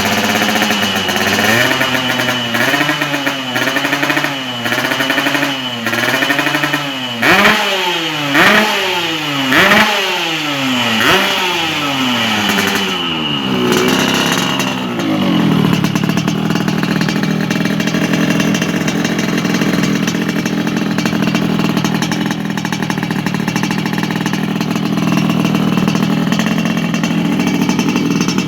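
Two-stroke motorcycle engine through an aftermarket racing exhaust, revved in a string of throttle blips, with four sharp revs about seven to eleven seconds in. About fifteen seconds in it drops back and runs steadily.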